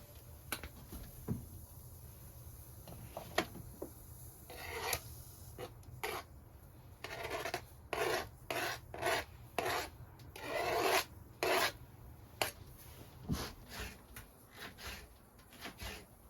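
A run of about ten rasping, scraping strokes in the middle of the stretch, each lasting a second or less and coming irregularly, with scattered single clicks and knocks before and after.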